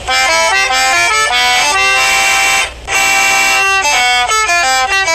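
Accordion playing a quick melody of short notes stepping up and down in pitch, in two phrases with a brief break about two and a half seconds in.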